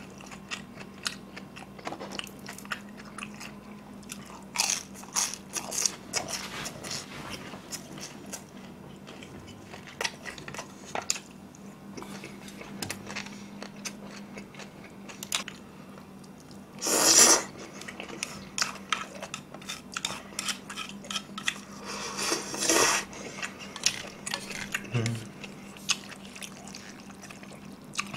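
Close-up chewing and crunching of crispy glutinous-rice-batter sweet and sour pork: many small crunches, with two louder bursts, one about halfway through and one a few seconds later.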